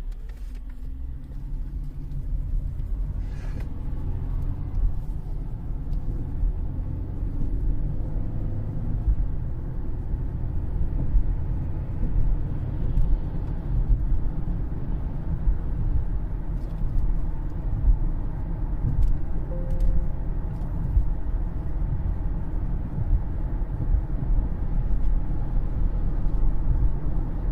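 Steady low road and drivetrain rumble inside the cabin of a 2013 Cadillac CTS 3.0 on the move, growing louder over the first few seconds. The faint driveline noise it used to make is no longer heard, a sign the driveshaft phasing fix has worked.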